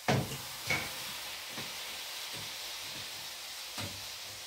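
Beef mince sizzling as it fries in a hot pan, with a steady hiss. It is being stirred with a wooden spoon, which gives a few knocks against the pan; the loudest knock comes right at the start.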